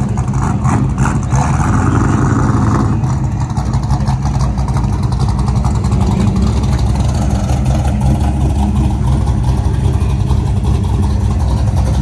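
The engine of a white first-generation Chevy II Nova drag car rumbling steadily at idle as the car rolls slowly past.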